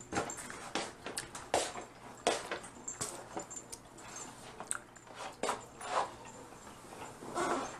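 Close-up eating sounds of Dungeness crab being eaten: irregular wet chewing, lip smacks and sucking, with sharp clicks and cracks of shell scattered throughout.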